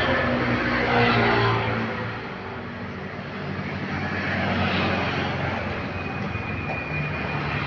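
Heavy road traffic passing: engine and tyre noise of large vehicles, loudest in the first second or so, dipping, then building again as another vehicle approaches.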